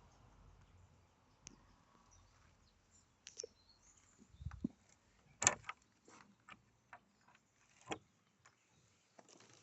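Footsteps crunching on a gravel path, a series of irregular short crunches, the loudest about halfway through.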